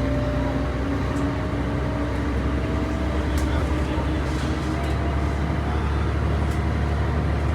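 On-board sound of a bus's Mercedes-Benz OM 447 HLA six-cylinder turbo diesel, paired with a ZF automatic gearbox, running under way: a steady low drone with a thin whine that rises a little in pitch over the first few seconds, then fades.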